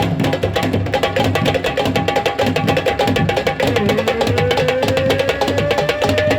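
Percussion-led music: fast, dense drum strokes with sharp, wood-block-like slaps, and a long held note that slides slowly upward in the second half.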